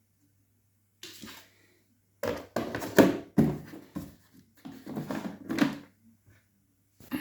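Handling noises: a run of irregular knocks, bumps and rustles, loudest about three seconds in, then dying away near the end.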